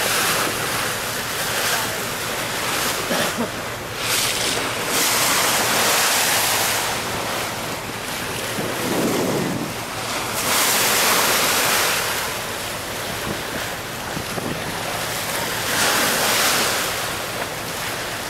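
Wind buffeting the microphone over the rush of sea water along a moving boat, swelling and easing in several gusts.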